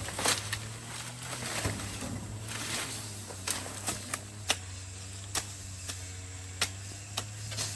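About a dozen sharp knocks or taps at irregular intervals over a steady low hum.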